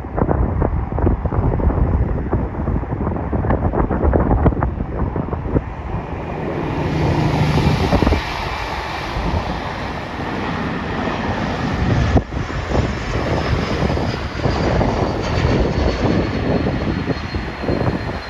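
Jet airliner passing on its landing approach: its engine noise swells about six seconds in, with a thin high whine that slowly falls in pitch. Heavy wind buffets the microphone throughout.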